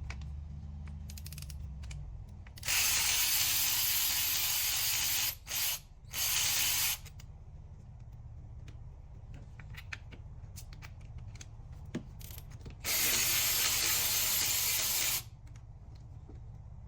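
Ratchet wrench spinning out 10 mm coil-pack bolts on a 2012 Camaro SS V8. It comes in rapid clicking runs, a few seconds about three seconds in with two brief breaks, then another run of about two seconds near the end.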